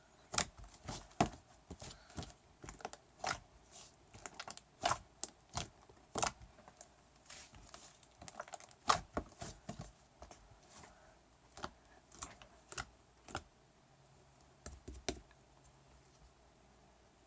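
Slime being squeezed and poked by hand, making irregular sharp clicks and pops, thinning out near the end.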